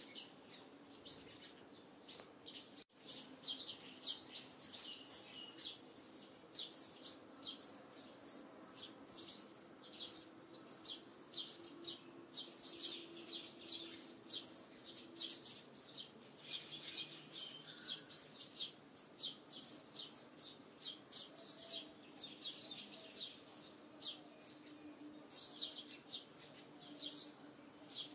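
Small birds chirping steadily, a dense run of short, high chirps several a second.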